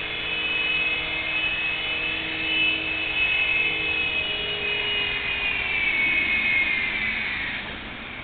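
Small electric motors and rotor blades of a Double Horse 9098 toy RC helicopter whining steadily as it is brought down to land; about six seconds in the whine glides down in pitch and fades as the motors spin down.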